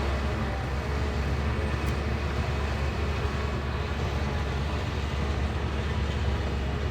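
Shantui bulldozer's diesel engine running steadily with a deep, even rumble.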